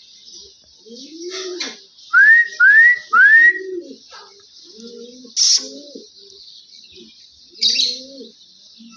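Indian ringneck parrot giving three quick rising whistles in a row about two seconds in, with softer low calls between them and two short harsh screeches later.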